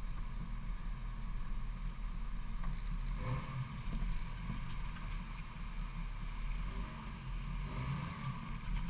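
Jeep Cherokee XJ engine running at low trail speed, a steady low rumble heard through a camera mounted on the vehicle's body.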